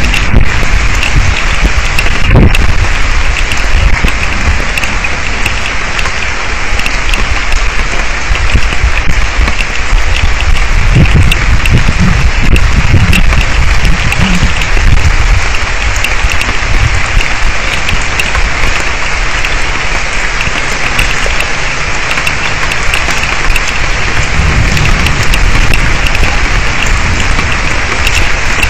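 Heavy rain falling steadily in a thunderstorm, pattering hard on and around an outdoor camera microphone, with low rumbles of thunder about 11 seconds in and again near the end.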